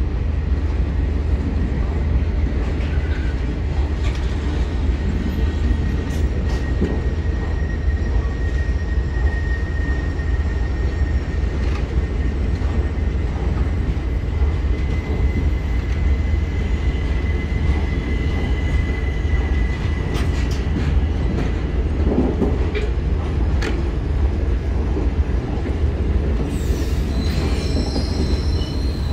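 Passenger coaches rolling past on the track: a steady rumble of wheels on rails, broken by occasional clacks. A thin, high wheel squeal runs through much of it and fades out about two-thirds of the way through.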